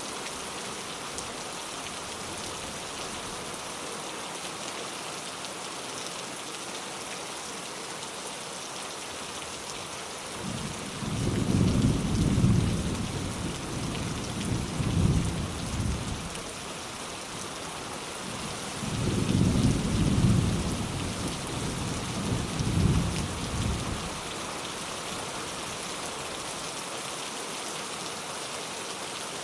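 Steady rain falling, with two low rolls of light thunder, the first about a third of the way in and the second soon after it, each rumbling for about six seconds.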